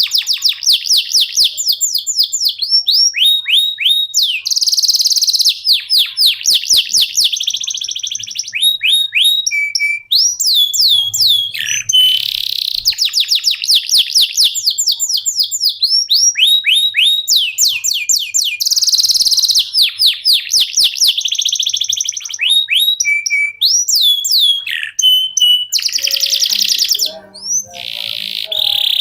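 Domestic canary singing a long, unbroken song: fast trills and rolls of repeated sweeping whistles that change to a new phrase every second or two.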